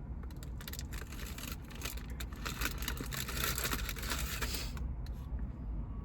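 Food being handled and eaten close to the microphone: a dense run of small crackles and rustles, busiest from about two to five seconds in, over a steady low rumble.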